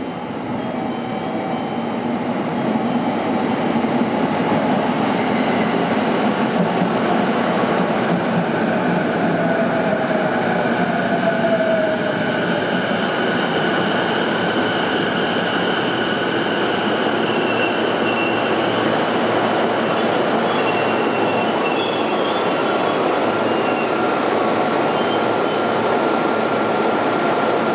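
Sagami Railway 11000 series electric train pulling into the station and slowing to stop. The running noise builds over the first few seconds as it arrives, a falling whine comes about ten seconds in, and steady high-pitched tones run through the later part.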